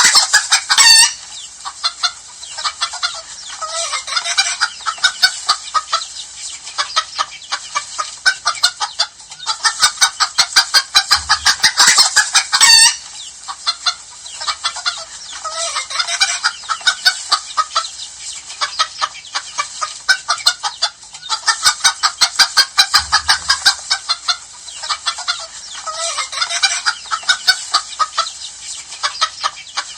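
A flock of chickens clucking and cackling, many short calls overlapping in a dense, continuous chatter that swells and eases in waves.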